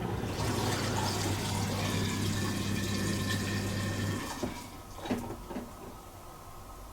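Bosch Serie 4 SMS46MW05G dishwasher's pump running with a steady hum and water rushing inside the tub, then cutting off about four seconds in, the water noise dying away after it.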